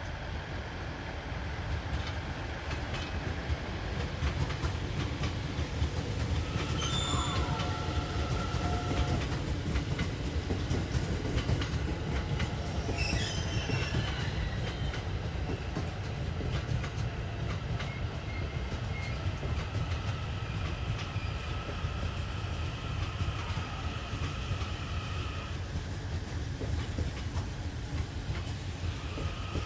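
Train Suite Shiki-shima running on its rails with a steady low rumble, its wheels squealing in high tones several times: briefly about a quarter of the way in, again near halfway, and for a longer stretch later on.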